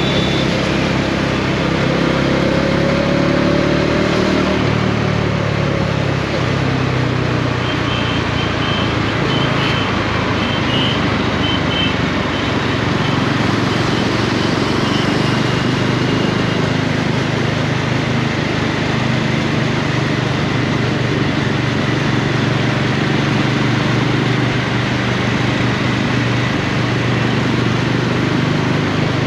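Bajaj Dominar 400's single-cylinder engine running under way, its pitch falling over the first few seconds and then holding steady, with an even rush of road and wind noise.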